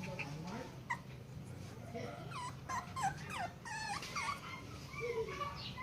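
Cheagle puppy whimpering in a quick series of short, high-pitched whines, starting about two seconds in.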